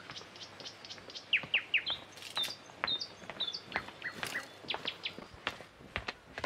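Small birds chirping in many short, quick calls, some in fast runs of two or three, with a few sharp clicks among them.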